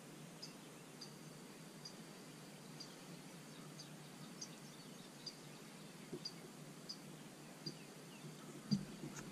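Faint bird chirping: a short high note about once a second over a steady low background rumble. A single thump near the end.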